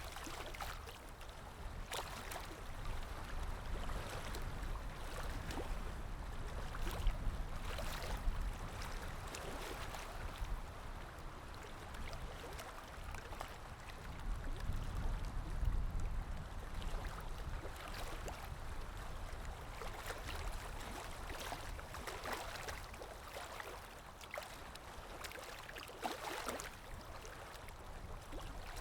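River water lapping and gurgling, with short clicks now and then and a steady low rumble underneath.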